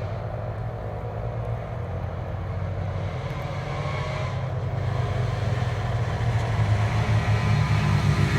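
Wind noise on the microphone from riding an e-bike: a steady low rumble that grows gradually louder.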